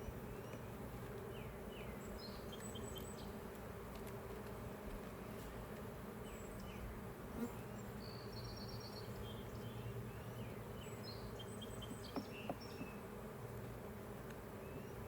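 Honeybees from an opened hive humming steadily in a loud roar. The beekeeper takes the roar of the bees in the set-aside box as the sign that the queen is not with them but still in the bottom box.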